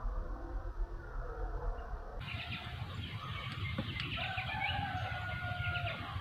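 Spotted doves cooing in repeated low notes, with small birds chirping around them; a single faint click a little before the middle.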